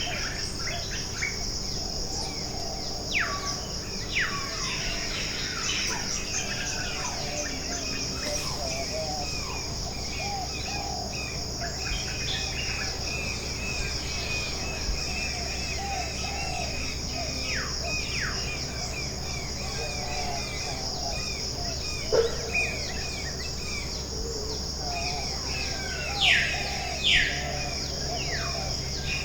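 Tropical forest ambience: a steady high insect buzz with many birds chirping and calling over it. A few loud whistles slide sharply down in pitch, a pair a few seconds in and another pair near the end.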